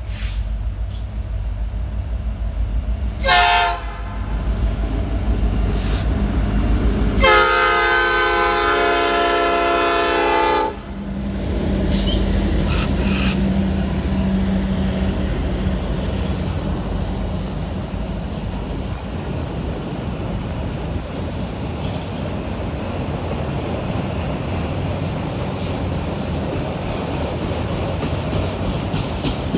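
Norfolk Southern SD70ACe diesel locomotive sounding its horn: a short blast about three seconds in, then a long blast of about three seconds. The locomotive's engine then passes close by, followed by autorack freight cars rolling past with a steady rumble and wheel clatter.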